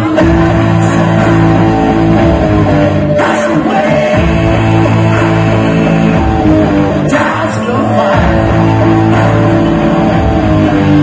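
Live rock band playing an instrumental stretch of a song at loud volume, with guitar to the fore and a few sharp hits.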